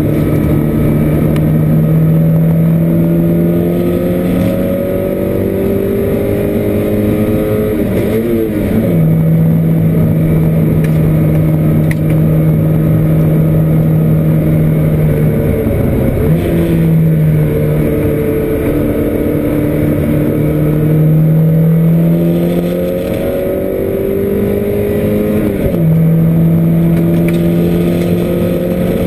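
Porsche 924 race car's four-cylinder engine heard from inside the cabin, running hard through a lap. The pitch climbs steadily under power, then falls back sharply with a brief wobble three times as the car slows and changes down for corners.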